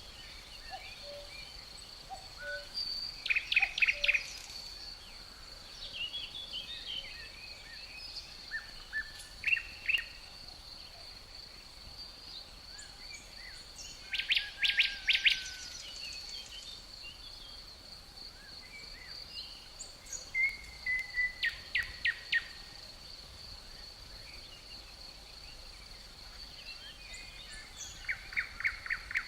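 Songbirds singing short phrases of rapid repeated notes, five bursts about six seconds apart, over a steady high-pitched insect drone.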